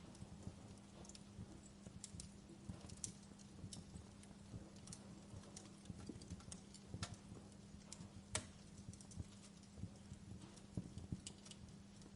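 Wood fire crackling in a fireplace: irregular sharp pops and snaps, a few louder ones, over a low steady hum.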